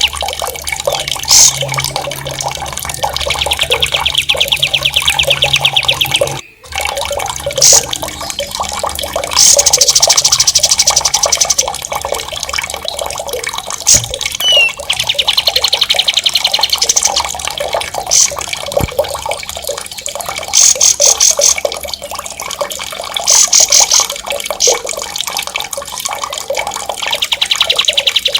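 Songbird singing sharp, rapid rolling trills, high-pitched, in bouts of a second to several seconds, repeated over and over. Underneath runs a steady sound of flowing water. The sound drops out briefly about six seconds in.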